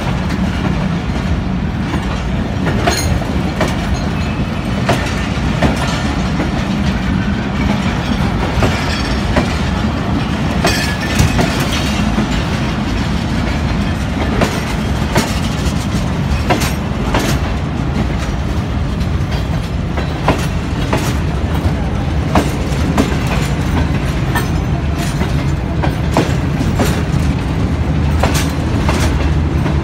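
Passenger coaches of a departing train rolling past on the track: a steady low rumble of wheels on rails, broken by scattered clicks and knocks as the wheels cross the rail joints.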